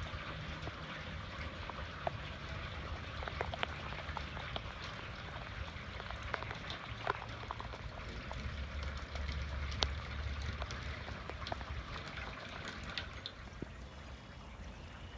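Steady rain falling, with many individual drops landing in sharp irregular clicks over a low rumble.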